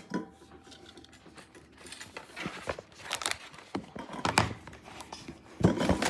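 Cardboard cookie boxes and packaging being handled: soft rustling with scattered sharp clicks and knocks, the loudest knocks near the end.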